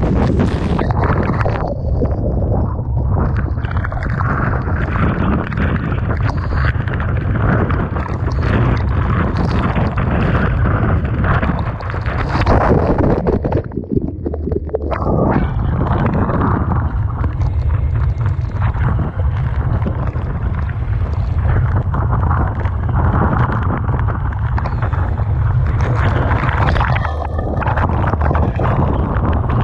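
Typhoon-force wind buffeting the microphone over heavy surf as storm-surge waves batter the shore, a continuous rumbling roar of wind and water. It swells loudest about twelve seconds in.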